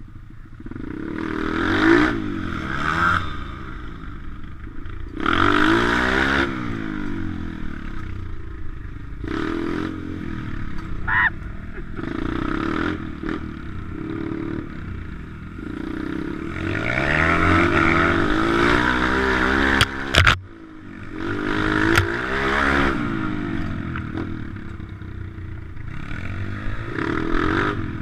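Pit bike engine revving up and easing off again and again as it is ridden, with a couple of sharp clacks about twenty seconds in.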